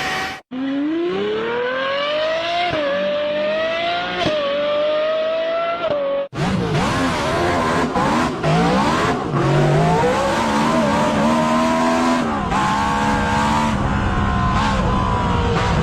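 High-revving V-engined cars from two separate recordings. In the first, the engine accelerates hard through the gears, its pitch climbing and dropping back at two upshifts. A sudden cut about six seconds in brings a second engine running at high revs, its pitch rising and falling as it is driven.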